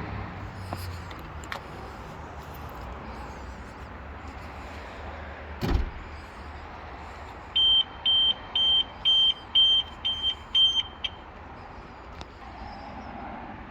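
A single low thud, then seven short, high electronic beeps at about two per second over a steady low hum.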